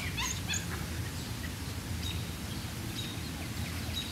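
Small birds chirping now and then over a steady low background rumble, with a quick run of chirps right at the start.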